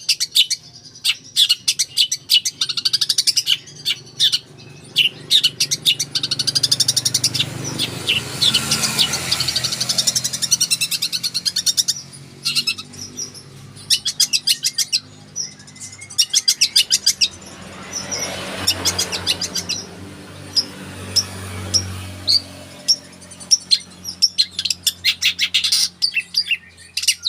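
Long-tailed shrike (cendet) singing a fast, chattering song packed with tree sparrow-like chirps: quick high chirps and rapid trills in bursts with short pauses between them.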